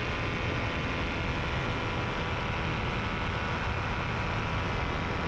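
Paramotor engine and propeller running steadily in flight, a constant drone with no change in speed. The propeller has been repaired and rebalanced with added weights.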